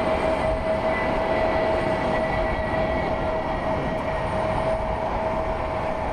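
Jet aircraft engines running steadily: a continuous rush of noise with a steady whine through it.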